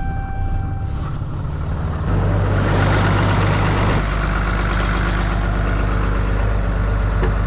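Truck engine running just after being started: a steady low hum, with a short pitched chime-like tone in the first second. About two seconds in the hum steps up louder and a steady hiss sits over it.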